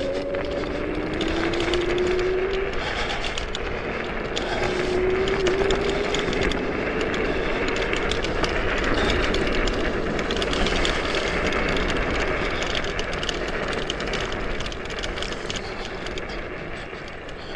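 Chaos FreeRide dual-motor electric scooter at speed: its hub motors whine under load in the first few seconds and again briefly mid-way, over a steady rush of wind and tyre noise on tarmac that eases off near the end.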